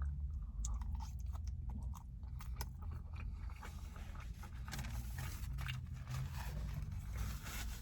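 Close-up eating sounds: chewing a mouthful of loaded asada fries with chicken, with scattered small clicks and scrapes. The fries are soft rather than crunchy.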